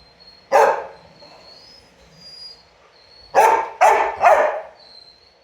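Dog barking in protest at a running robot vacuum: one bark, then three quick barks about three seconds in.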